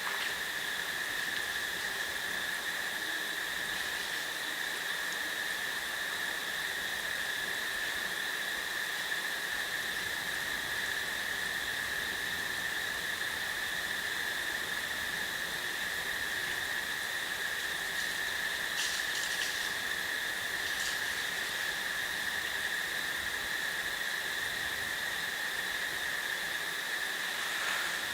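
Steady chorus of crickets: one unbroken high trill with a fainter overtone above it, level throughout. A few faint, short high chirps come about two-thirds of the way through.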